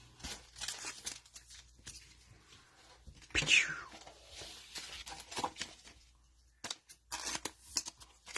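Cellophane trading-card pack wrappers crinkling and tearing, with one louder tear a little over three seconds in.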